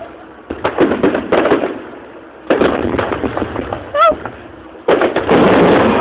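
Fireworks going off: a series of sharp bangs and crackles, then a louder, sustained crackling barrage that starts about five seconds in.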